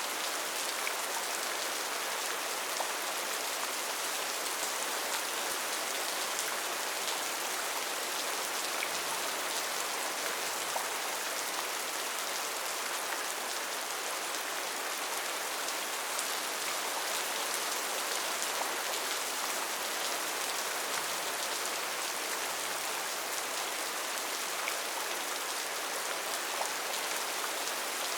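Steady rainforest rain: an even hiss of falling rain with scattered sharper drop ticks.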